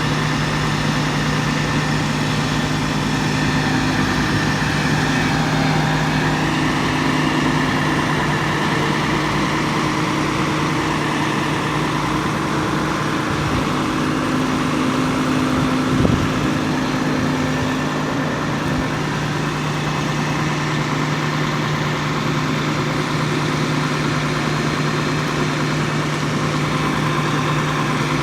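Fire truck engine running steadily at idle, an even hum that does not change, with a single brief knock about two-thirds of the way through.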